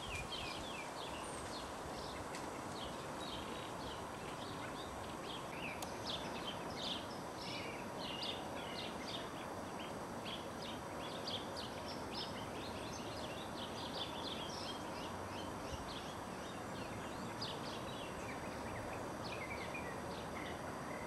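Birds chirping, a steady run of short, overlapping high calls, over a constant background hiss.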